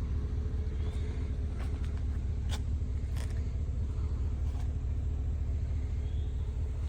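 Steady low rumble of a running vehicle, with a faint steady hum and a few light clicks.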